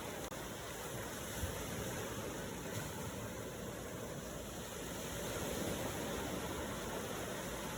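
Steady rushing noise of water from waves, even and without distinct breaks.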